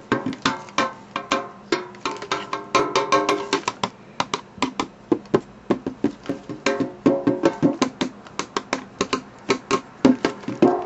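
A springform pan, still in its wrapping, tapped and struck as a drum. The strikes come quickly in an uneven rhythm, several a second, each with a short pitched ring.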